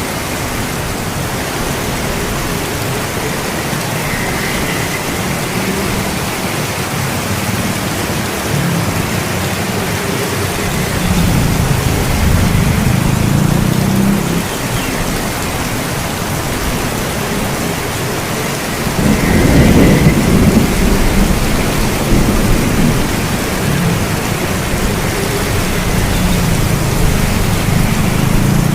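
Steady heavy rain with rolling thunder. A low rumble swells up before the middle, and a louder thunder roll comes about two-thirds of the way through.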